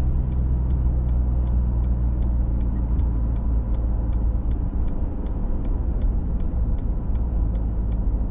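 Pickup truck cabin with the engine and road noise making a steady low rumble, and the turn-signal indicator ticking evenly, about three to four ticks a second, ahead of a left turn.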